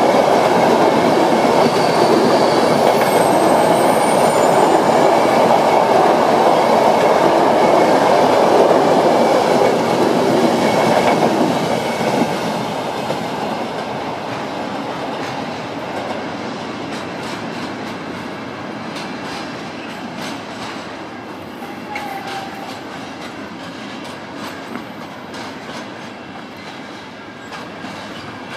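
A rake of passenger coaches rolling past at speed, a loud rumble of wheels on rail that fades from about twelve seconds in as the train draws away, leaving fainter wheel clicks over the rail joints.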